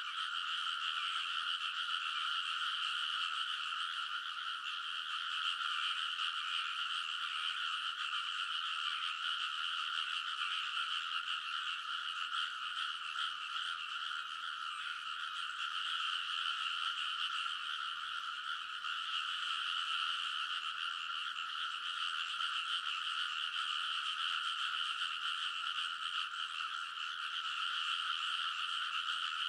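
Many rice-paddy frogs calling together in a dense chorus: a continuous, overlapping din of croaks with no pauses.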